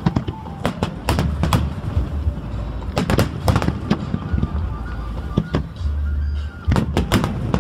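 Display fireworks going off: an irregular series of sharp bangs, some close together, over a steady low rumble.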